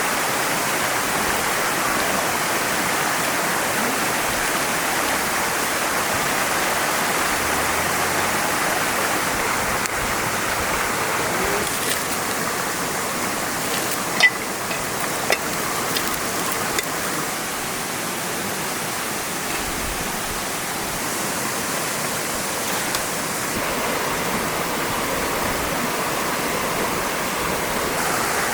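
Mountain stream rushing steadily over rocks. A few sharp clicks stand out about halfway through.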